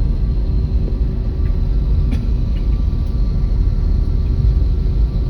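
Jet airliner's engines giving a loud, steady low rumble with a few faint steady tones over it, and a single sharp click about two seconds in.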